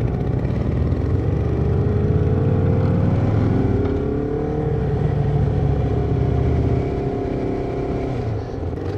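Motorcycle engine pulling away, rising in pitch as it accelerates over the first few seconds, then running steadily at cruising speed.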